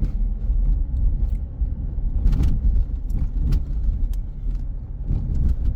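Road and engine noise of a moving vehicle heard from inside the cabin: a steady low rumble with scattered light clicks and rattles.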